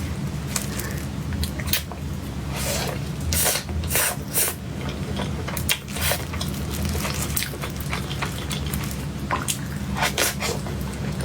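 Close-miked wet chewing and mouth smacks of someone eating soft cake, in short irregular bursts over a steady low hum.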